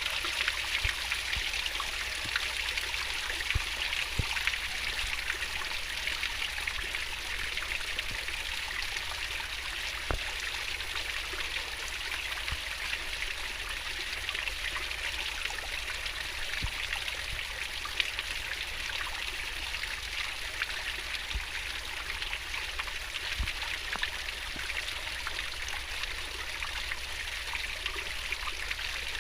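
Fast-flowing stream of water babbling and splashing steadily, with small droplet-like clicks scattered through it.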